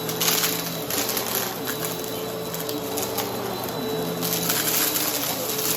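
Vacuum cleaner running with its brushroll spinning, a steady motor hum under irregular crunching as it picks up debris.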